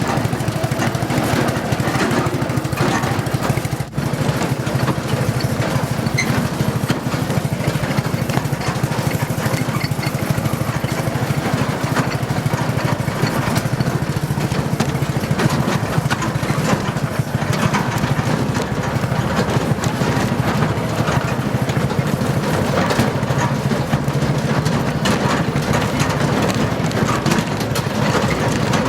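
A small engine running steadily and loudly, with a fast, even chugging throb that does not change.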